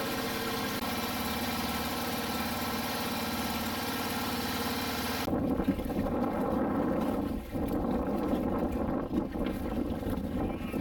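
Motorboat engine running steadily. About five seconds in, the sound cuts abruptly to a lower, rougher and more uneven engine noise.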